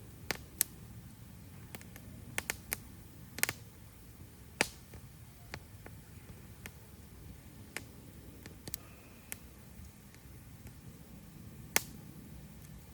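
Wood campfire crackling: irregular sharp pops and snaps, a few much louder than the rest, over a faint low rumble of the burning fire.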